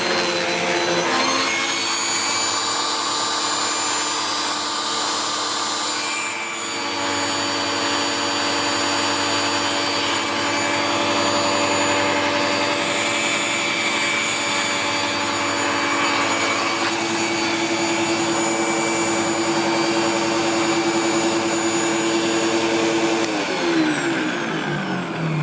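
SEBO X4 Extra upright vacuum cleaner running steadily while driving an air-powered turbo brush on its hose; it is switched off near the end, and its motor whine falls away as it winds down.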